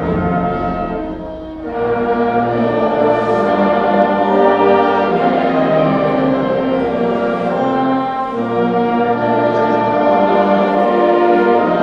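High school band playing sustained chords with brass prominent, with a brief lull about a second and a half in before the full band comes back in.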